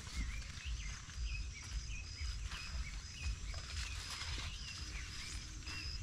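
Birds calling: short chirps that rise and fall, and a high note repeated about twice a second, over a low outdoor rumble.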